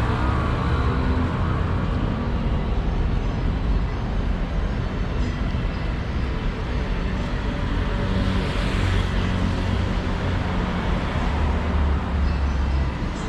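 City street traffic: motor vehicles running close by with a steady low engine rumble, and a brief rushing swell of a vehicle passing about two-thirds of the way in.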